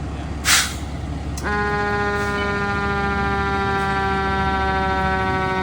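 Emergency vehicle siren switching on with a click about a second and a half in, then holding one long wail whose pitch falls slowly, over the low, steady hum of the idling vehicle's engine. A short hiss comes just before it, about half a second in.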